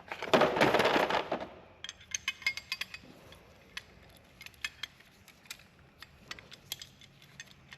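A brake-line flaring tool being wound down onto a steel brake line, its tip greased: a short rustling scrape at the start, then irregular metallic clicks and ticks as the tool is turned.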